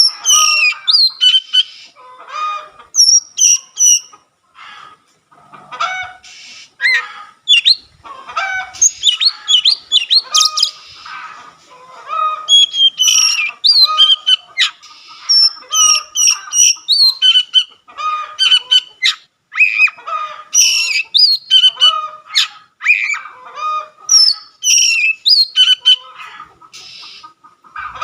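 Oriental magpie-robin (kacer) singing loudly and continuously: a fast, varied run of whistles, chirps and harsher notes with only brief pauses.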